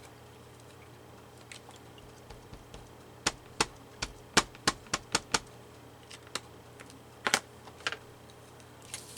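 A run of sharp clicks and taps, about eight in quick succession around the middle, then a few scattered ones, from craft supplies being handled on a work table.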